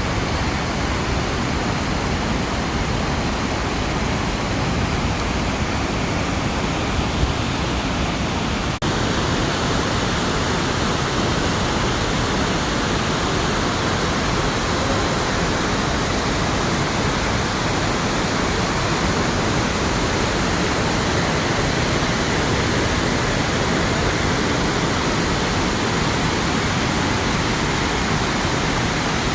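Waterfall and whitewater rapids rushing, a steady dense hiss of falling water with a brief dropout about nine seconds in.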